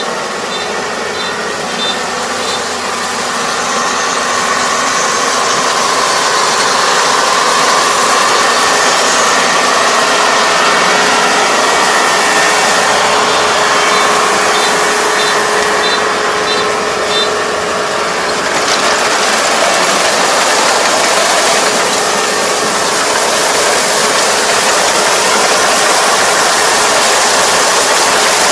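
ER470 combine harvester running under load while cutting rice, a steady loud engine and threshing drone, with a short high beep about twice a second near the start and again midway.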